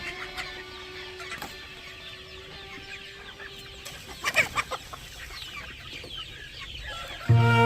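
A flock of chickens clucking and calling, with many short high calls and a louder burst of squawking about halfway through. Music comes in loudly near the end.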